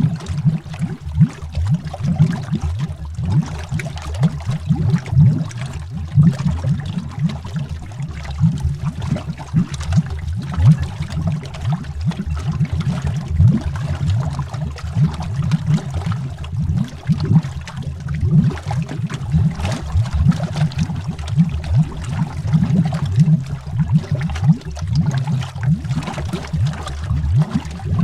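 Continuous underwater bubbling: a dense, uneven stream of low bubbles gurgling and popping, mostly deep in pitch.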